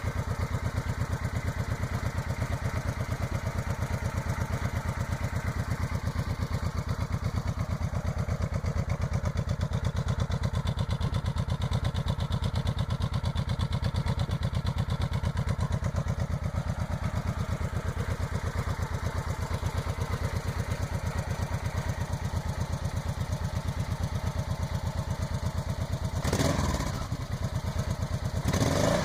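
2013 Suzuki Boulevard C90B's V-twin idling steadily through its stock exhaust, with an even, rapid pulse. Two brief louder noises come near the end.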